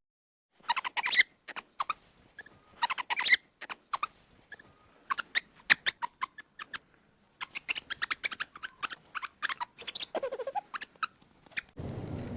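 Rapid runs of short, high squeaks and chirps from a small animal, broken by brief silences. Near the end a louder, steady sound cuts in.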